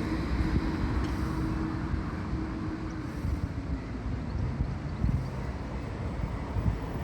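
Tram running past on the Blackpool tramway: a low rumble with a steady motor hum that fades away about four seconds in, with wind on the microphone.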